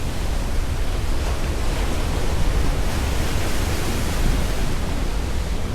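Sea waves washing on a beach, a steady rushing noise, with wind buffeting the microphone in a heavy low rumble.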